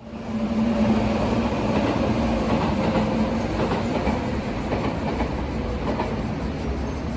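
A train running past: steady rumble and wheel-on-rail noise with a low hum, easing off slightly toward the end.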